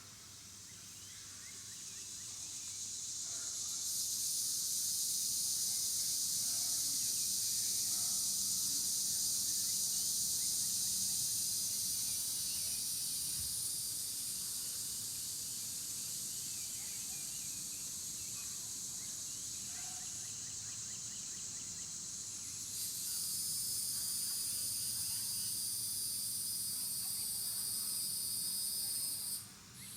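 A chorus of insects buzzing steadily and high-pitched. It swells over the first few seconds, jumps louder about two-thirds of the way through, and breaks off briefly near the end.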